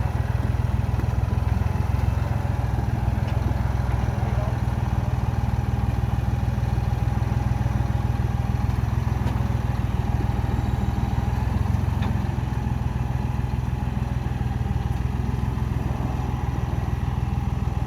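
An engine idling steadily, a constant low hum that does not change in pitch or level.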